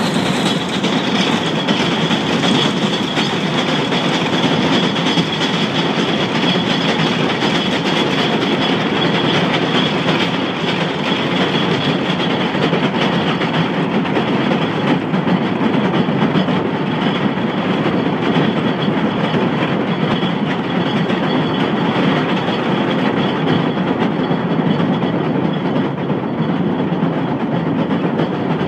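Electric rack-railway train running steadily on a rack section, heard from the driver's cab: a continuous rumble of wheels and running gear on the rails, with a high whine that fades away over the first half.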